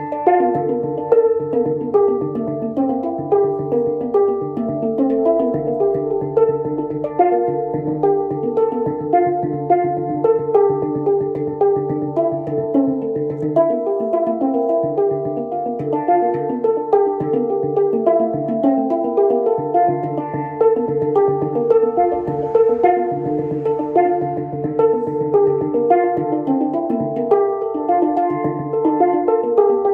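Handpan played by hand: a steady flowing run of struck, ringing melodic notes, several a second, over a recurring low note.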